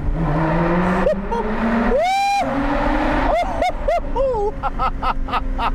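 Lotus Evora GT's supercharged 3.5-litre Toyota V6 under hard acceleration. The engine note rises steadily in pitch over the first two seconds, then jumps about in short swoops as the revs change.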